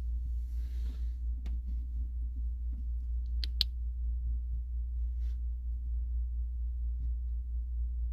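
Steady low hum with light rustling and a few small clicks, loudest a pair of sharp clicks close together about three and a half seconds in, typical of a small plastic toy figure being handled.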